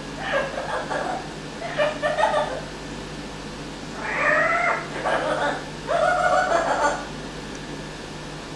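Amazon parrot vocalizing: a string of about five separate pitched calls, the longer ones about four to seven seconds in, one of them rising then falling in pitch.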